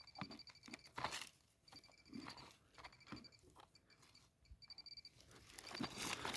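Metal-detecting pinpointer sounding a high, steady beeping tone that comes and goes in several stretches as it is moved over a buried iron target, with faint crunches and scrapes of soil being dug.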